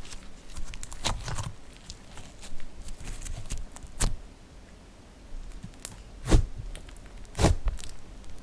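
Slime being worked by hand, with soft crackling and a few sharp pops and snaps at irregular intervals, four of them loud.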